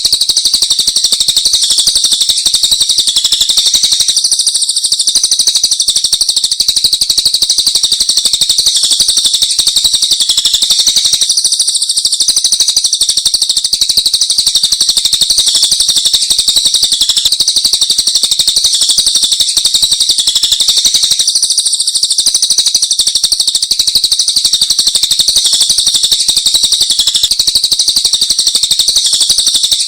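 Songbird singing in a dense, unbroken stream of very rapid high-pitched chirps and trills.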